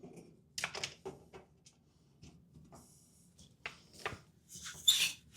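Scattered clicks and knocks, with a brief scraping hiss about three seconds in and a sharp clatter near the end: the refrigerator's rear cover panel and its screws being handled while the cover is fitted back on.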